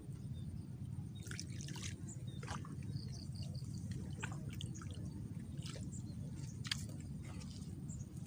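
Water dripping and splashing lightly in short, irregular drops over a steady low rumble.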